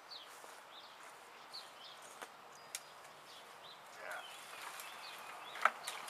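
Birds chirping repeatedly, short falling calls about once or twice a second, over faint outdoor background noise. A few sharp clicks or snaps break in, the loudest shortly before the end.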